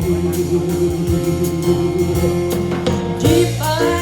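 Live band music: a woman's voice holds one long sung note at the end of a line over keyboard, electric bass and drums, and a new melodic phrase rises in about three seconds in.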